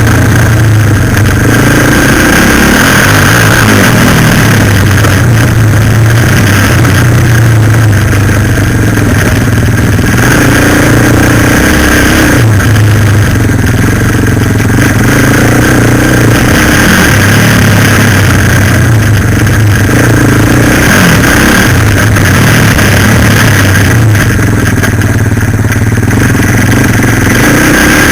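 Suzuki LTZ 400 quad bike's single-cylinder four-stroke engine running loud and close under throttle, its revs dropping and climbing again every few seconds as it is ridden.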